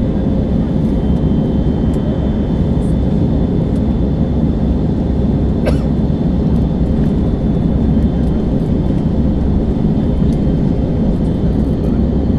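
Steady rumble of an airliner's cabin: engine and airflow noise during the descent for landing, with a faint steady whine and a single click about six seconds in.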